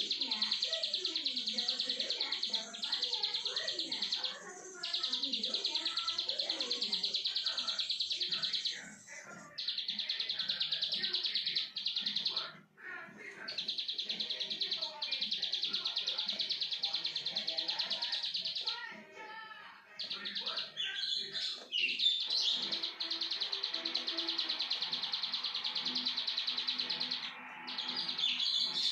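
Plain prinia (ciblek sawah) singing hard: a fast, buzzy, high trill given in long runs of several seconds each, broken by short pauses. Near the end it adds a few more varied, sharper notes. Faint voices sound in the background.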